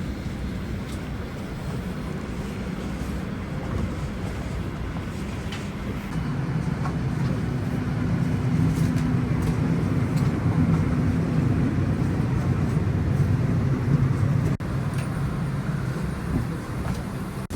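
Steady low hum inside the cabin of a parked Boeing 737-800, growing louder about six seconds in, with a few faint clicks.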